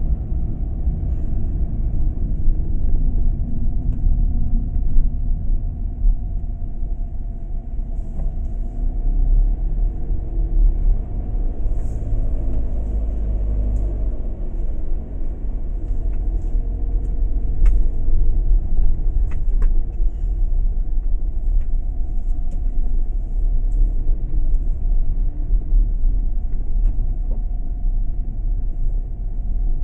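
Motor vehicle driving: a steady low rumble of engine and road noise, the engine's pitch rising and falling gently as speed changes.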